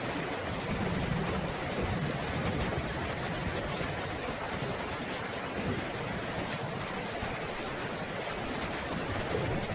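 Steady rain falling as an even hiss, with a low rumble of distant thunder swelling about a second in and easing off by about three seconds.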